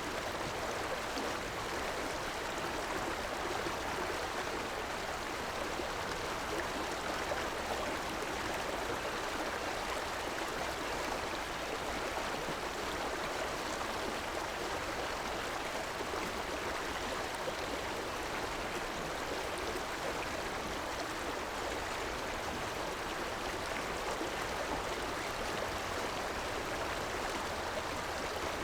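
River water rushing and splashing over rocks, a steady, even flow.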